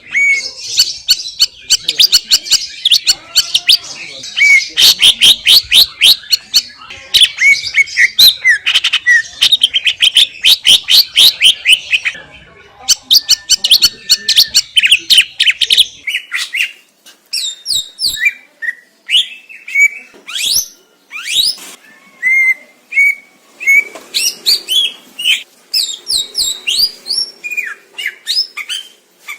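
Green leafbird (cucak ijo) singing loudly: rapid strings of sharp, repeated high notes for about the first half, then a more spaced run of varied whistled notes and chips.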